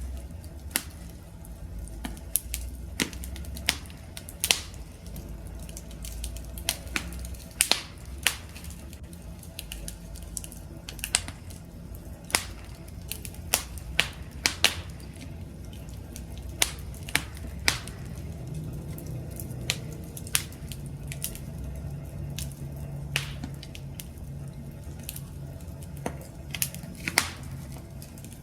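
Wood campfire crackling: irregular sharp pops and snaps, several a second at times, over a low steady rumble.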